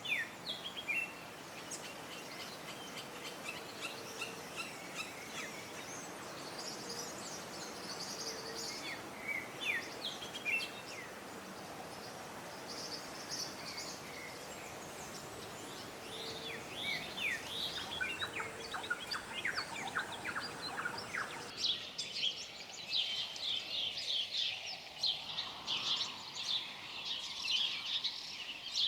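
Small birds chirping and calling over a steady wind-like hiss. About two-thirds of the way through, the hiss drops away and the chirping becomes dense and continuous.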